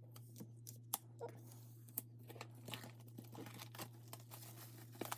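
Plastic shrink-wrap being peeled and torn off an album package, a run of irregular crinkles and small crackles with a sharper snap about a second in, over a faint steady hum.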